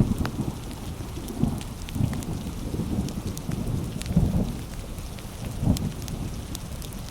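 Heavy rain falling steadily, with a wood fire crackling in sharp little pops over it and irregular low rumbling surges every second or two.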